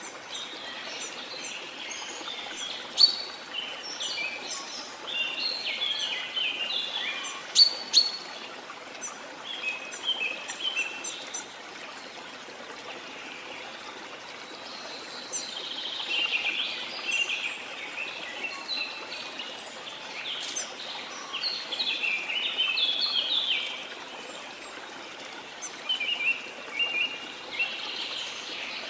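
Many birds calling and chirping at once, with rapid short notes and trills, over a steady hiss of running water.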